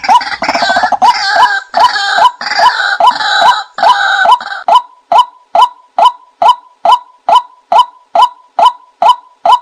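A bird's short call repeated evenly, about twice a second, with harsher, noisier bird calls over it for roughly the first half.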